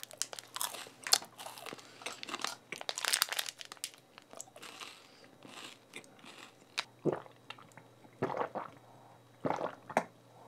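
Crunchy Orion Dr. You energy bar being bitten and chewed close to the microphone: many sharp crunches, dense at first and thinning out after about six seconds.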